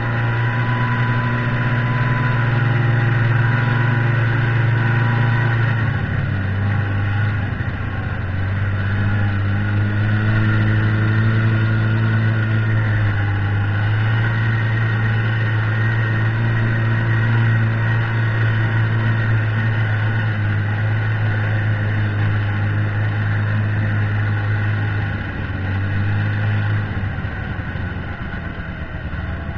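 Buran snowmobile engine running under way, its steady note dipping and rising a few times as the throttle changes, and dropping lower near the end.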